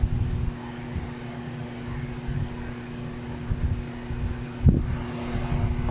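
Samsung washing machine running after its control-board repair, with a steady hum and a low rumble, and a single knock a little over four and a half seconds in.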